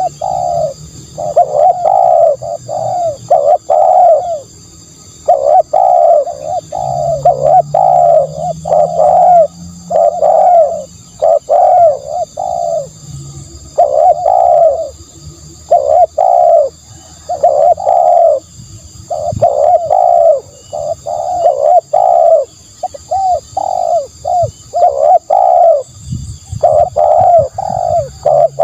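Spotted dove cooing over and over: phrases of short, low coo notes repeated with brief pauses between them.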